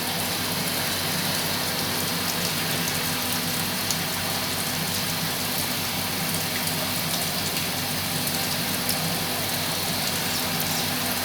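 Bore well drilling rig's engine running steadily with a constant hum, while rain falls with a steady hiss and scattered drop ticks.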